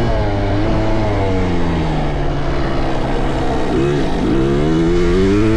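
Motocross dirt bike engines running on the track: one bike's engine note falls off, then climbs again as it revs up in the last second or two, over a steady drone from other bikes.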